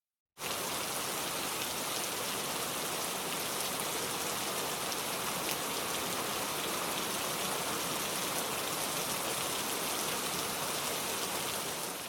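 Steady rain falling, an even hiss with fine patter of drops, starting suddenly about half a second in and fading out at the end.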